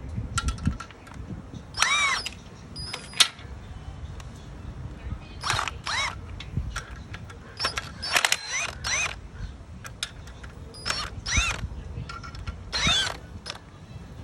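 Hand tools at work on a clutch and transmission install: about a dozen short bursts of ratchet-like clicking and whirring, each under a second, with pauses between.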